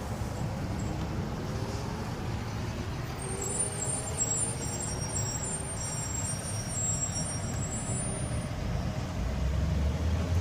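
Steady rumble of motor-vehicle noise, with faint high-pitched chirps through the middle of the stretch.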